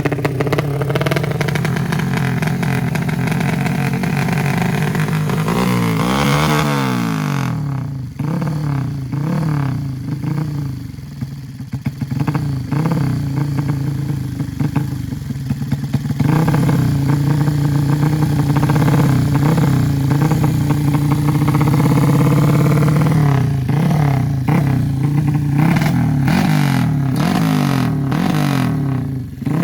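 Honda Revo motorcycle engine breathing through an aftermarket K-One racing exhaust, revved up and down repeatedly while being tuned. The revs swing sharply about six seconds in and run harder and louder through the second half.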